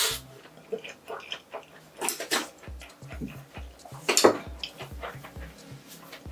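Close-miked chewing and wet mouth sounds of a person eating spicy fire noodles, with many small clicks. A few louder sharp noises stand out, the loudest about four seconds in.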